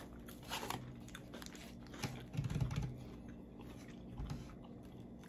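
Close-miked chewing and soft mouth sounds of people eating, with scattered small clicks and a brief low murmur near the middle.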